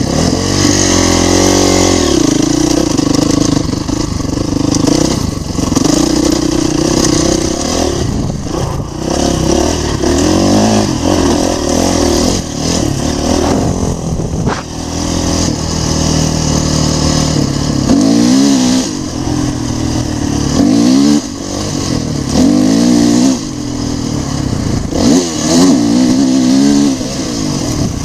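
Dirt bike engine running hard under load, its pitch climbing and dropping again and again as the rider accelerates, shifts and backs off. Quicker rev swings come in the second half.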